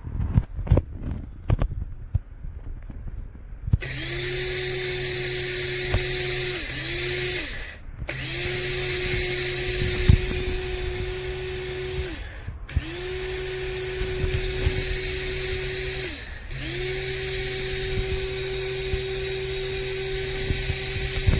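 DR MILLS DM-7441W electric blade grinder's motor run in pulses: after a few clicks of handling, it spins up and runs about four seconds in, and stops and restarts four or five times. Each run rises in pitch as it starts and winds down when released.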